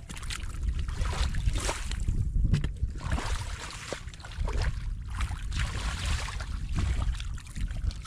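Water in a flooded rice field splashing and sloshing in repeated surges, with wind rumbling on the microphone.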